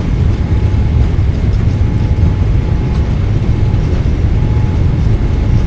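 Boeing 777-300ER on its takeoff roll: a loud, steady low rumble of its GE90 engines at takeoff thrust and its wheels on the runway.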